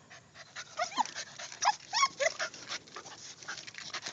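A dog whimpering: about four short, high-pitched whines that slide up and down, close together in the middle, over a quick run of short rapid sounds.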